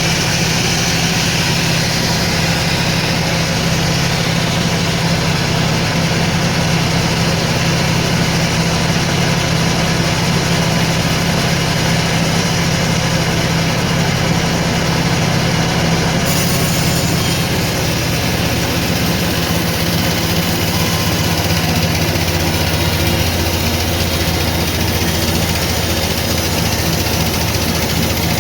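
Sawmill machinery running steadily with a deep engine-like hum. The hum drops to a lower pitch about two-thirds of the way through.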